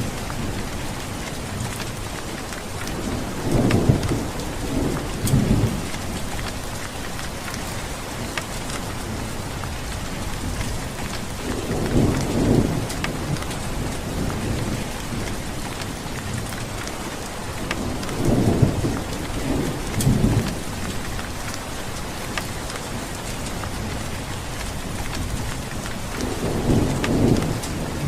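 Steady rain falling, with thunder rumbling low four times, each roll swelling and fading over a second or two.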